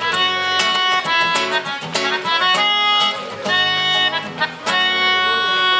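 A live band plays an instrumental passage between songs. Held chords change about every half second, with light percussion hits over them and an accordion-like reedy tone.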